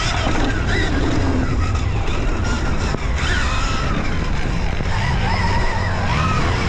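Dirt bike being ridden on a motocross track, its pitch rising and falling with the throttle, over heavy wind buffeting on the camera.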